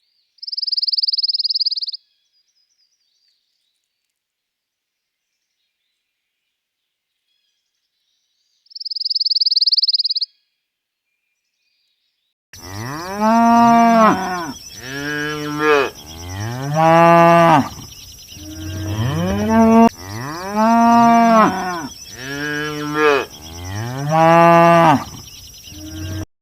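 Cattle mooing: a long run of loud lowing calls, one after another, each rising and then falling in pitch, starting about halfway through. Before it come two short, high, steady whistling tones several seconds apart, with dead silence between them.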